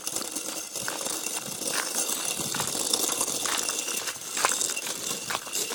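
A child's B10 bicycle rattling and crackling as it is pedalled slowly up a slight incline, a steady rolling noise with irregular small clicks and knocks.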